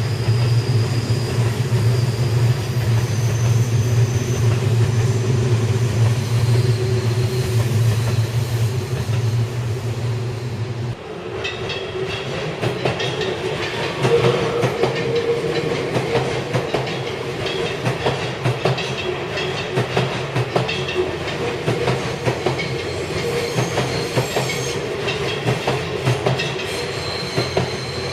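Seibu Railway electric commuter train running on the line, with a steady low hum and faint high whines. About eleven seconds in the sound changes abruptly to another train, its wheels clattering over the rail joints with a quick run of clicks and a higher whine.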